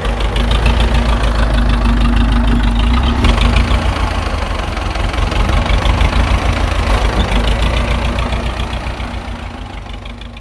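Diesel tractor engine running steadily with a fast knocking beat, fading away near the end.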